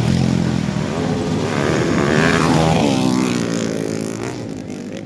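Motocross dirt bike engines revving as the bikes race past, loudest about halfway through, then fading away.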